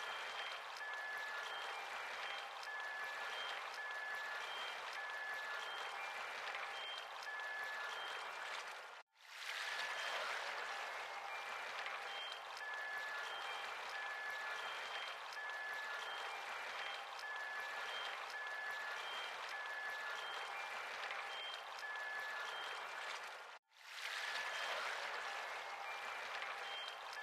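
Background ambience track: a steady hiss with short, high whistling notes repeating at a few fixed pitches, cutting out twice for a moment.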